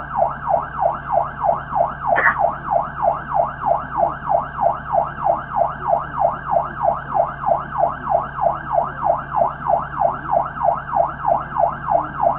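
Police car siren on its yelp setting: a fast rising-and-falling wail, about three to four sweeps a second, with a brief knock about two seconds in.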